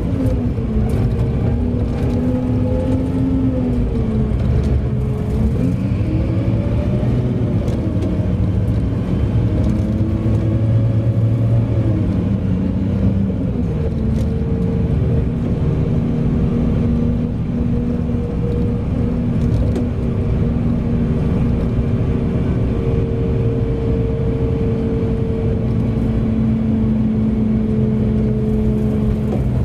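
Large mining haul truck's diesel engine running. Its pitch rises and falls for roughly the first half, then holds steady.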